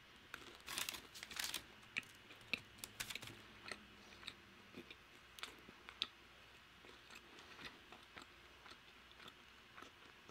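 Close-up chewing of crispy cheese-powdered Korean fried chicken: a burst of crunching about a second in, then softer scattered crunches and wet mouth clicks.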